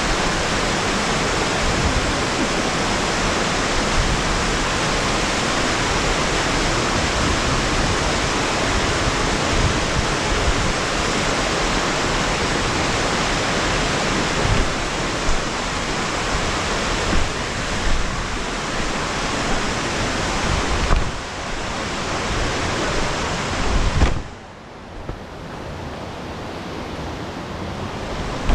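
Rushing water from a mountain waterfall cascade, a loud, steady rush with a few low thumps. About 24 seconds in it drops abruptly to a much quieter hiss.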